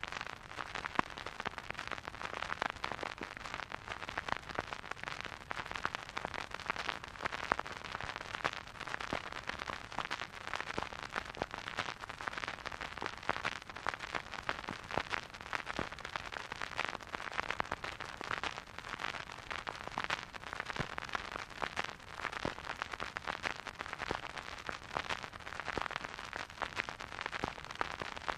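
Vinyl record surface noise from a turntable: a steady soft hiss with dense, irregular crackle and pops, and no music playing.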